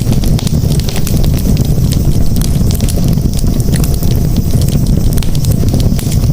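Campfire burning and crackling, with frequent sharp pops and snaps over a steady low rumble.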